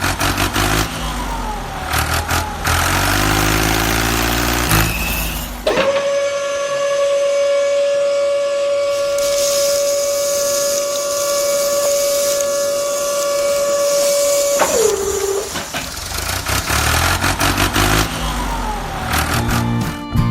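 Tractor engine running and revving. In the middle, one steady tone is held for about nine seconds and slides down in pitch as it stops, after which the engine sound returns.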